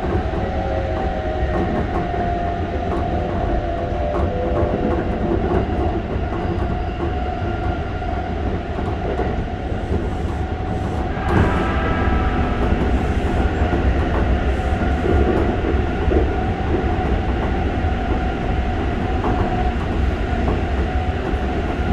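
Keikyu 600 series electric train heard from inside a passenger car while running: a steady rumble of wheels on rail with light clicks over the rail joints and a steady whine from the traction motors, which are driven by a Mitsubishi GTO-VVVF inverter. About halfway through, the sound turns louder and noisier, with higher whining tones added.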